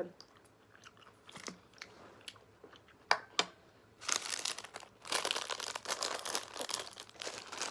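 Close-miked eating: a few soft mouth clicks and chewing, then from about four seconds in a dense, crackly crunching.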